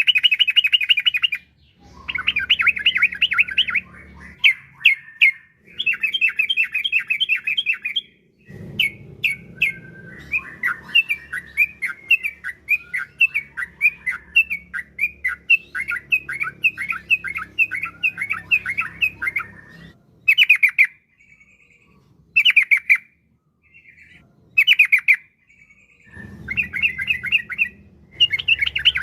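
Yellow-vented bulbul (trucukan) singing in long, fast rolling trills of sharp repeated notes, bout after bout several seconds long. Short pauses and a few brief single bursts come about two-thirds of the way through.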